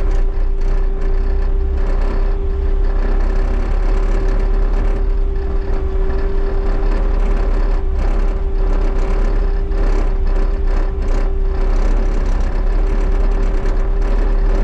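Bobcat T77 compact track loader's diesel engine running steadily under way, with a strong low rumble, a steady whine, and frequent irregular rattles and clanks from the machine as it drives.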